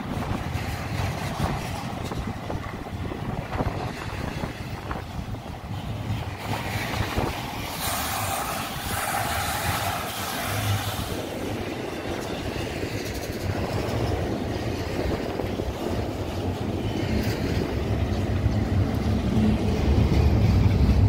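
Union Pacific freight train passing, a steady rumble that grows louder near the end.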